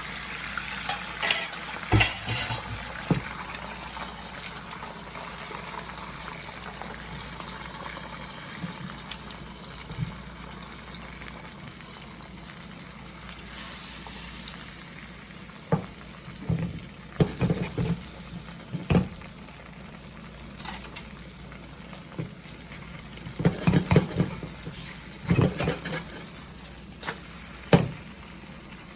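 Food sizzling steadily in hot oil in a pan, with a utensil knocking and scraping against the pan now and then, most often in the second half.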